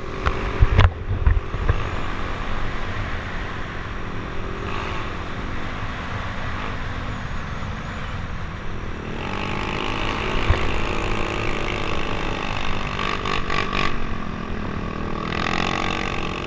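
Motorcycle engine running through an aftermarket "chicken pipe" exhaust: a steady exhaust note throughout, with a few low thumps in the first two seconds.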